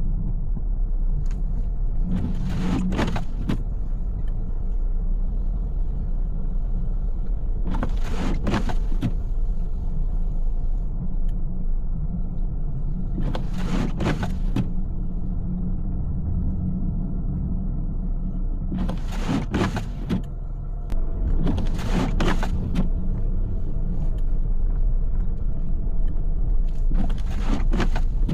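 Steady low road and engine rumble inside a car driving through snow. Short swishing bursts come every five or six seconds.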